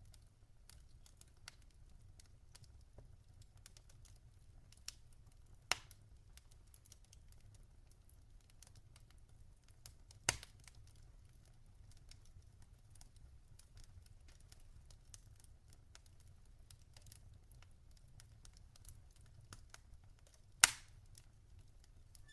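Burning logs in a fireplace crackling: scattered faint ticks with a few sharper pops, the loudest near the end, over a faint low rumble.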